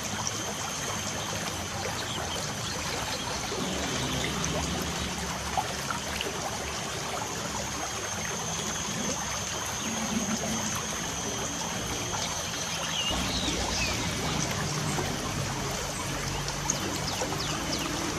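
Light rain falling, a steady trickling hiss of water, with a few short bird chirps about two-thirds of the way through.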